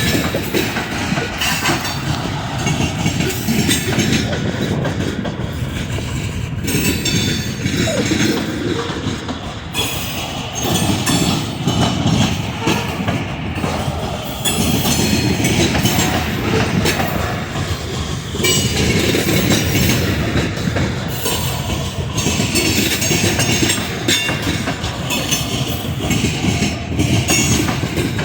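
A train rolling past, its wheels clattering over the rails in a continuous rumble that swells and dips as the cars go by.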